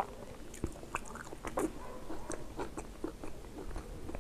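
Close-miked chewing of soft food, with short wet mouth clicks and smacks scattered throughout.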